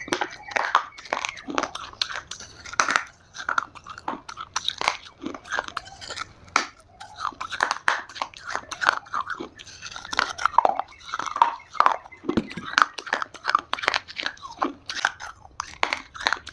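Dried Multani mitti (fuller's earth clay) being bitten and chewed close to the microphone: a dense run of sharp, irregular crunches and crackles.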